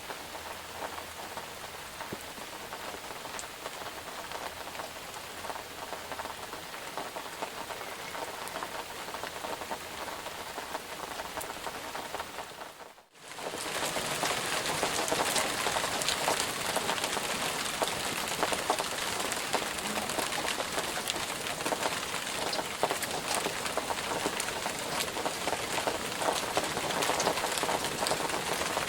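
Steady rain falling, a dense patter of drops. About halfway through it fades out for a moment and comes back louder and brighter.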